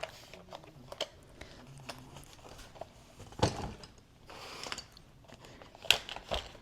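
Plastic tempera paint sticks and their packaging being handled on a table: scattered small clicks and taps, a knock about three and a half seconds in, a short rustle just after, and a sharp click near the end.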